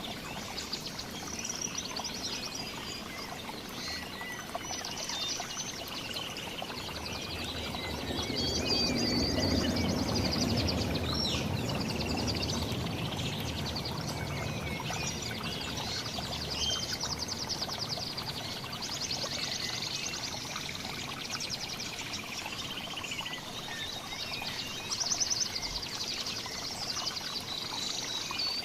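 Several songbirds chirping, trilling and calling over one another, over a steady rushing noise like running water that swells for a few seconds a little way in.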